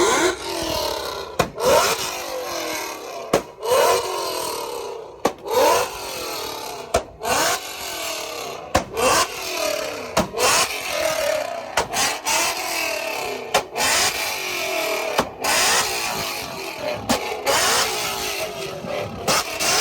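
Car engine revved hard over and over, its pitch climbing with each rev about every second and a half, with sharp cracks between the revs.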